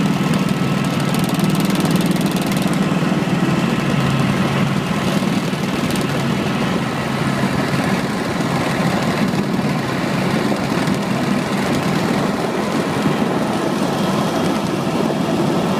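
Tour helicopter's engine and rotor running steadily: a constant loud drone with a strong low hum.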